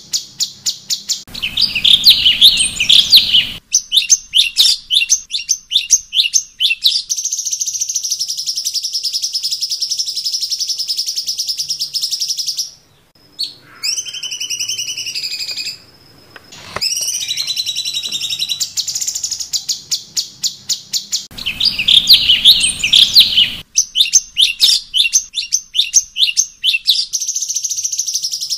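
Cucak cungkok singing a varied song: rapid series of sharp high chirps, long fast buzzy trills, and a few gliding whistles near the middle, with a whole phrase sequence repeating about twenty seconds in.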